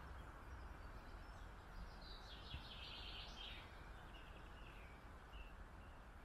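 Faint songbird singing: a short run of high chirps about two seconds in, then a few fainter calls, over a low steady background hum.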